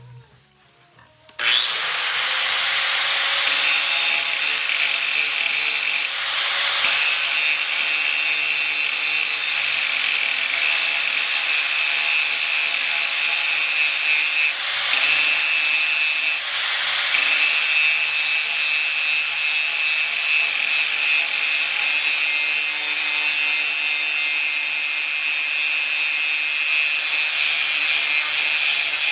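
A power tool working steel plate. It starts up about a second and a half in and runs steadily, a loud grating hiss with a high whine.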